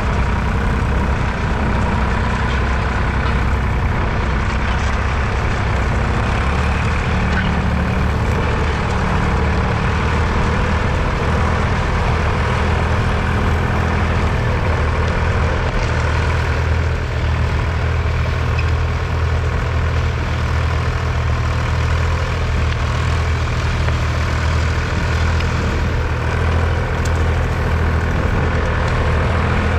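1966 Nuffield 10/42's 2.8-litre three-cylinder BMC diesel engine running steadily, a deep low-pitched chug, as the tractor works a two-furrow plough.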